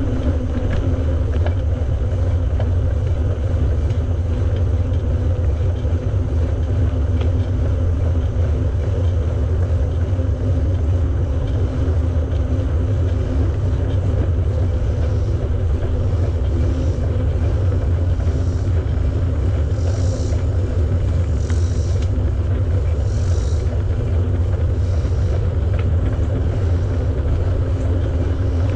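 Steady low rumble of wind on the microphone and tyre noise from a bicycle being ridden, with a faint steady hum. In the middle, faint high hissing pulses repeat about every second and a half.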